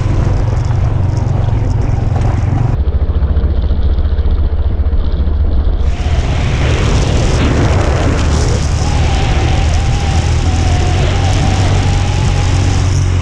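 Motorcycle on the move, a loud steady rumble that changes abruptly about three and six seconds in; a wavering whine joins in the second half.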